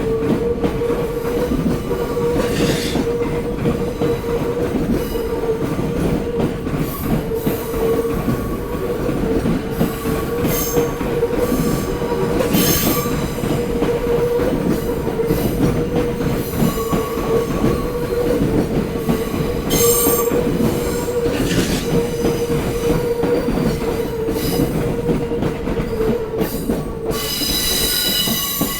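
Sobu Line electric commuter train running on the rails: a continuous heavy wheel-and-rail rumble with a steady held tone. Brief high-pitched wheel squeals come through now and then, the loudest near the end.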